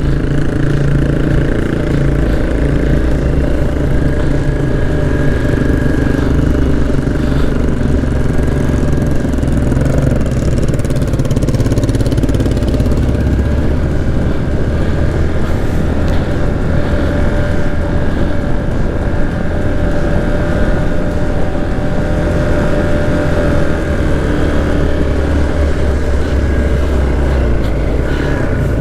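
Motorcycle engine running steadily as the bike is ridden, with a strong low rumble.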